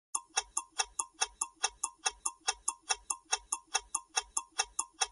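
Quiz countdown timer sound effect: a clock ticking quickly and evenly, about five ticks a second.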